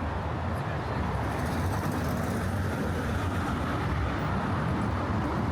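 Steady traffic noise from cars driving on the Brooklyn Bridge roadway.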